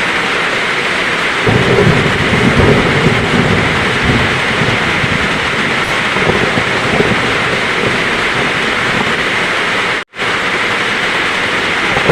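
Heavy rain falling as a steady, loud hiss, with a low roll of thunder rumbling in about a second and a half in and fading over the next few seconds. Near the end the sound cuts out completely for a split second and comes straight back.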